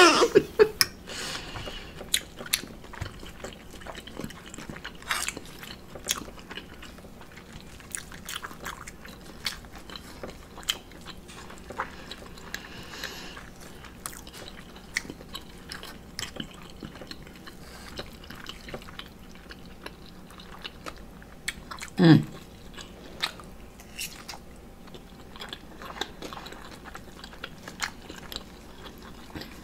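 Close-miked eating of an omelet: chewing and small mouth clicks, with light clicks of a metal fork against the plate. One brief hummed vocal sound about two-thirds of the way through.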